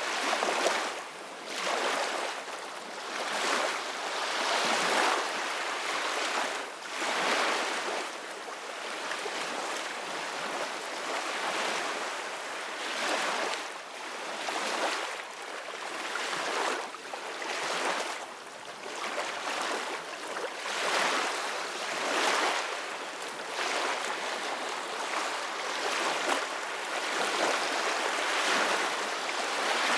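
Ocean waves washing ashore: a continuous surf hiss that swells and eases every couple of seconds.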